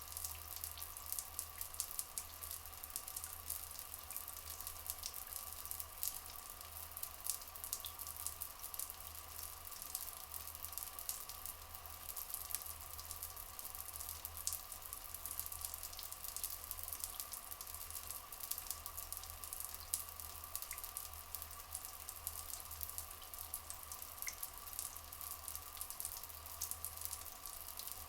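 Water trickling and flowing steadily, with many small drips and splashes, over a constant humming drone. A couple of brief faint chirps come late on.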